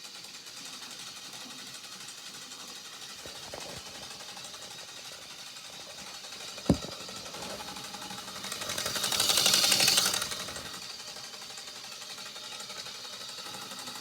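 Lego model diesel engine running, its plastic parts making a fast, steady buzzing clatter. There is a sharp click about halfway through, and the clatter swells much louder for about two seconds before settling back.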